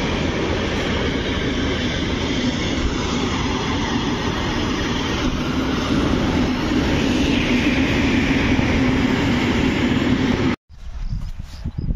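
Freight train of tank wagons rolling along the track: a steady rumble of wheels on rail. It cuts off suddenly near the end, giving way to a much quieter outdoor sound.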